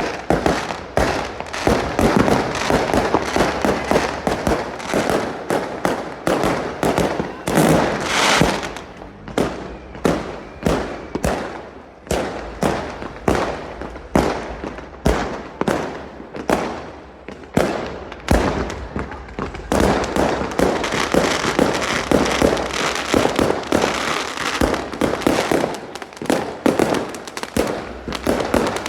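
Fireworks display: a dense, continuous barrage of bangs, many in quick succession every second.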